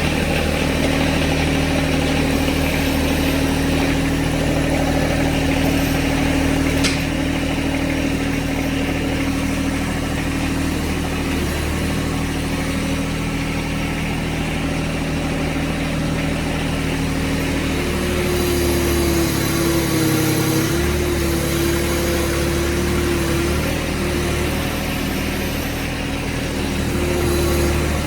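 John Deere 1025R compact tractor's three-cylinder Yanmar diesel engine running steadily after a restart, its note shifting slightly for a few seconds about two-thirds of the way through.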